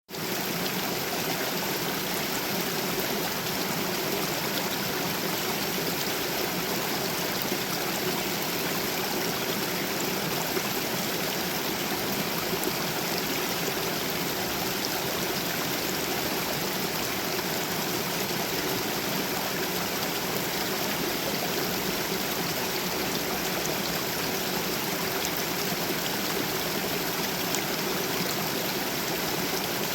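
Small stream flowing over a small cascade: a steady, even rush of running water.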